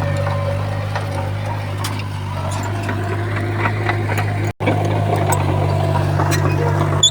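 Heavy diesel earthmoving machinery running steadily at a low, even drone, with scattered light clanks. The sound cuts out for an instant about four and a half seconds in.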